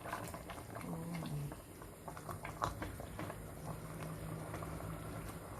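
Pot of chicken in coconut milk bubbling and crackling as it cooks, with scattered small clicks and one sharper click about halfway through, over a faint low hum.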